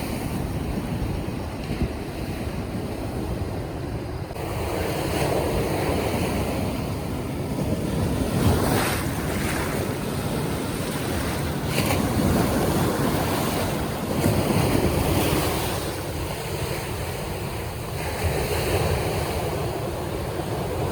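Surf breaking and washing at a river mouth, surging in waves every few seconds, with wind buffeting the microphone.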